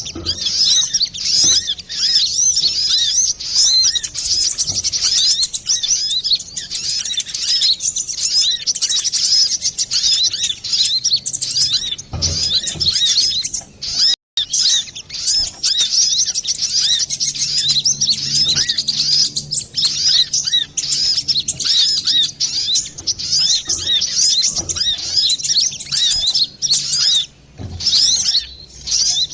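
Brown-throated sunbird (kolibri kelapa) singing busily: a dense, nonstop stream of rapid high, thin chirps and trills. It breaks off for a split second about halfway through.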